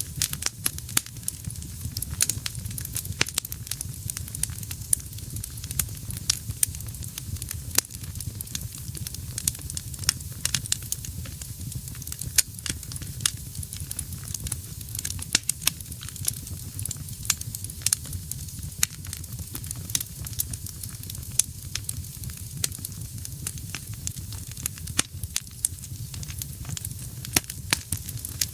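Wood fire burning in a fireplace: a steady low rumble of flames with frequent sharp crackles and pops from the burning logs at irregular intervals.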